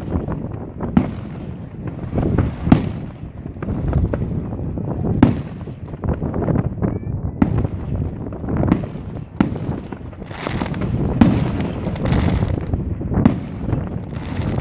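Fireworks display: a quick run of firework shell bursts, one bang every second or so. Some bursts have longer crackling tails, thickest about ten to twelve seconds in.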